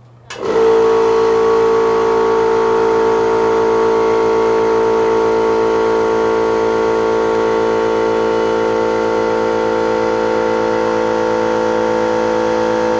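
Electric air compressor switched on, starting abruptly about a third of a second in and running with a steady, even hum as it pressurizes a homemade water rocket.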